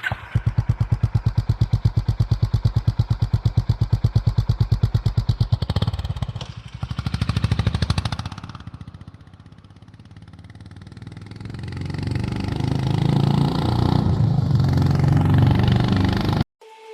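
Exhaust of a single-cylinder 350 cc motorcycle idling with an even thump of about seven or eight beats a second, briefly revved about six seconds in. The engine note then dies down and builds steadily again over the last several seconds before cutting off.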